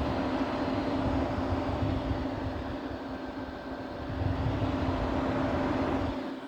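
Aun M18 UP projector's cooling fan blowing air out of its exhaust vent close to the microphone: a steady whir with a low hum and a rumble of air on the mic. It drops off near the end.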